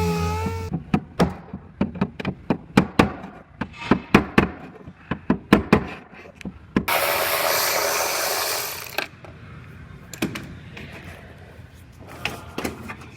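Body hammer tapping on a car's sheet-metal panel to knock down a high spot: a run of sharp taps about two a second, then about two seconds of hiss, then a few scattered taps.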